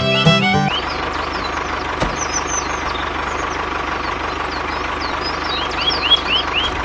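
Violin music stops less than a second in, giving way to a small tractor engine idling steadily, with birds chirping over it.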